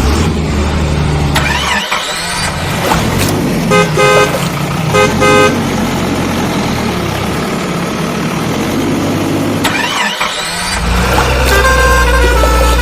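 Vehicle sound effects: a low engine rumble, two rising whooshing sweeps, and two quick runs of short horn beeps about four and five seconds in.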